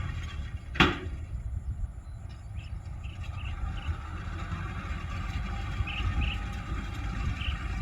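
Kubota L4508 diesel tractor running steadily with a low rumble, driving the Star 850 straw baler behind it. A single sharp knock about a second in, with a few faint short squeaks later.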